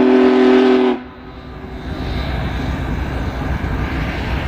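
Big Boy 4014's steam whistle blowing one long steady chord that cuts off about a second in, leaving a low steady rumble.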